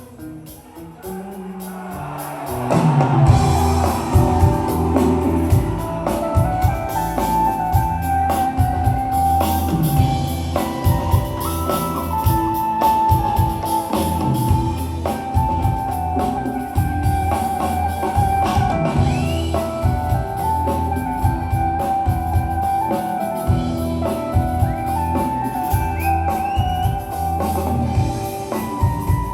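Live band playing an instrumental passage: drum kit and guitar under a melodic lead line, with no singing. It starts quietly and the full band comes in about three seconds in.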